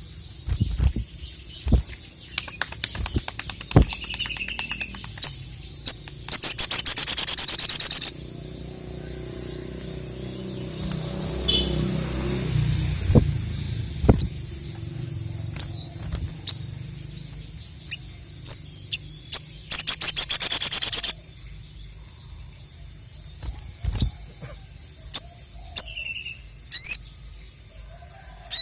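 A sogon (sogok ontong, a spiderhunter) singing hard: sharp high chirps scattered throughout, broken twice by long, very rapid high trills, the first about two seconds long and the second about a second and a half.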